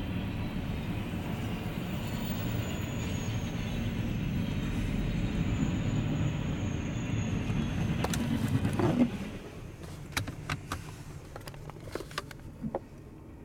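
CSX double-stack container train rolling past close by: a steady rumble of wheels on rail that drops off sharply about nine seconds in as the end of the train goes by. It is followed by scattered clicks and knocks.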